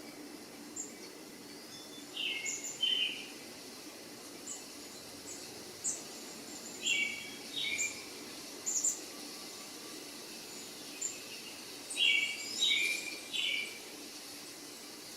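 Birds chirping: short, falling calls and thin high notes in small clusters about every five seconds, over a steady faint background hiss.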